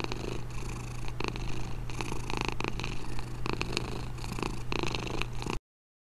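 Domestic cat purring steadily, in a continuous run that cuts off suddenly near the end.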